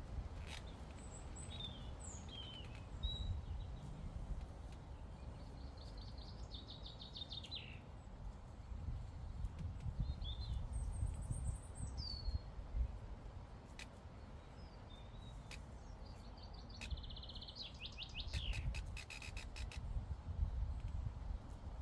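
Songbirds chirping, with short high calls and two trilled, falling phrases, over a steady low rumble of wind. Scattered sharp clicks, in a quick run near the end.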